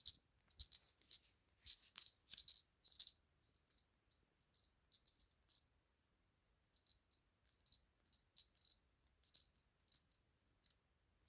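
A small bell jingling in short, irregular shakes, louder and more frequent in the first three seconds, then sparser.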